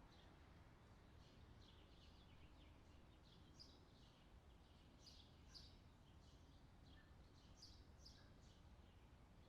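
Faint songbirds chirping and twittering: many short, high chirps, busier in the second half, over a low, steady background rumble.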